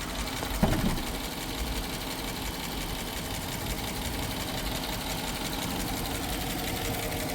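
Dodge Durango's 5.7 Hemi V8 idling with a fast, light, even ticking. The owner suspects either an oil issue, an exhaust leak or, at worst, a lifter.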